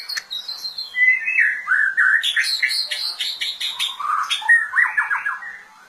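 White-rumped shama (murai batu) singing a long, varied phrase of clear whistles, falling slurs and quick repeated chattering notes, tailing off just before the end.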